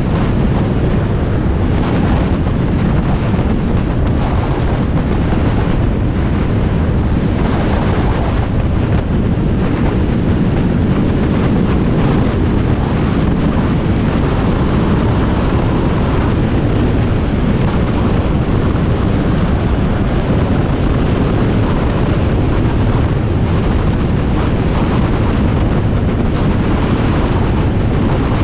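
Wind rushing over the microphone of a Harley-Davidson Iron 1200 motorcycle riding at steady speed, with the bike's air-cooled V-twin running underneath; loud and unbroken throughout.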